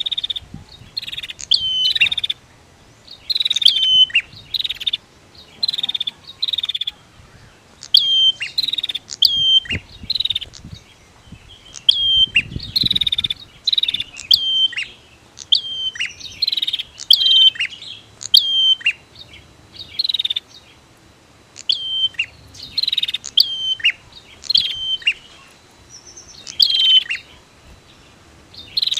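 Prinias (prenjak) calling: short, high chirping phrases repeated in bursts about every second or two.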